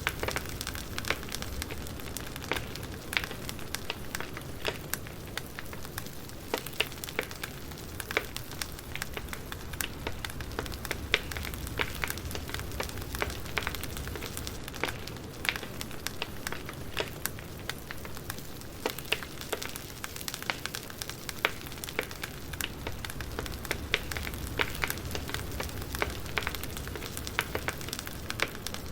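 Wood fire crackling: a steady low rumble of burning logs with frequent irregular snaps and pops.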